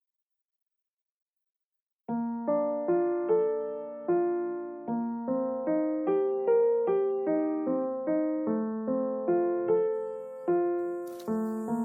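Background piano music, a gentle melody of evenly paced notes that ring and fade, starting about two seconds in after silence.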